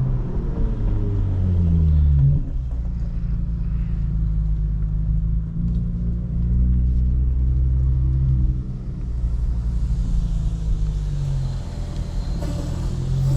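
2022 Lexus IS350's 3.5-litre V6 running through a straight-through exhaust (mid-pipe without secondary cats, muffler-delete axle-back) as the car cruises at light throttle. The engine note falls about two seconds in, then holds a steady rumble with small rises and falls.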